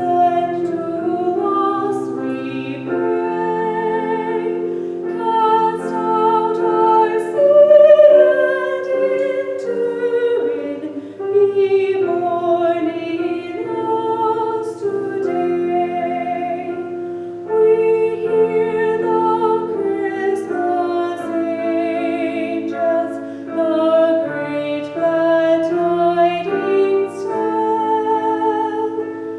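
A woman singing a hymn solo with vibrato, accompanied by piano.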